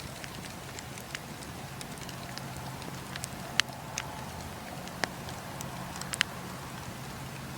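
Campfire burning with a steady hiss and low rumble, the wood crackling with sharp pops. About five louder snaps are scattered through it, the loudest a little past halfway.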